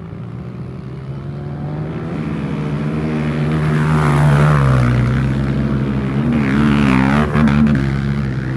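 Dirt bike engine running, growing louder over the first few seconds as it approaches, its pitch wavering up and down with the throttle.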